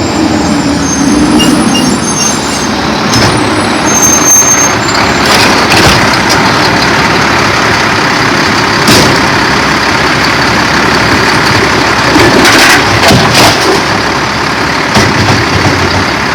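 Garbage truck running loudly and steadily, with several sharp knocks along the way.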